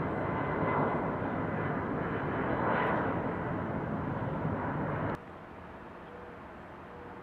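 Departing jet airliner's engines: a loud, steady rushing noise with a faint high whine. It cuts off abruptly about five seconds in, leaving only a quieter background hum.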